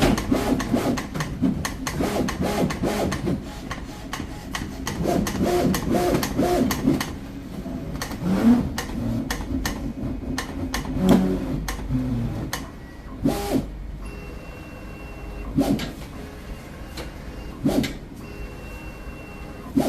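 Hard-paper pattern cutting plotter at work: its carriage motors run in short pitched moves with many sharp clicks. Late on, a steady high tone sounds in several stretches.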